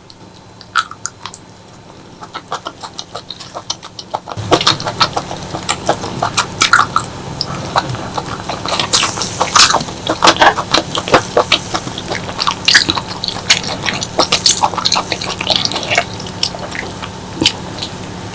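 Close-miked wet eating sounds from stir-fried clams in roasted chili paste: smacking, sucking and chewing in quick clicks, sparse at first, then denser and louder from about four seconds in.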